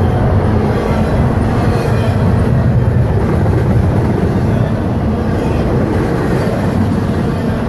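Double-stack intermodal container train's well cars rolling past: a steady, loud rumble of steel wheels on rail.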